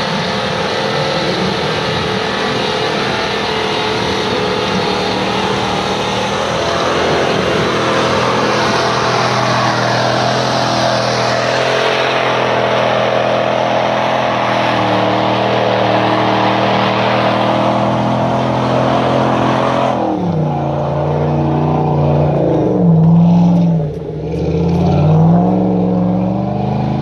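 A 4x4 off-road vehicle's engine working hard under load, with a dense rushing noise over it. After about twenty seconds the noise drops away and the engine revs up and down several times.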